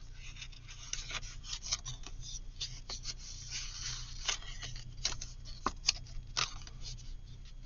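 Paper and cardstock being handled at close range: irregular rustles, rubs and small taps as pieces are pressed and rubbed down.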